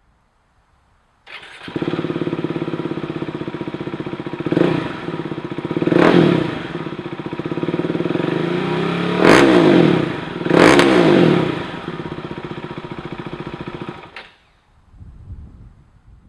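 Husqvarna Vitpilen 701's single-cylinder engine breathing through a Leo Vince aftermarket exhaust. It starts about a second in and idles, is revved four times with short throttle blips (the last two strongest), then is switched off near the end.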